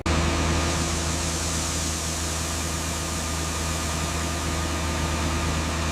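Diesel engine of heavy road-construction machinery running steadily, a constant low hum with a wide hiss over it, starting abruptly.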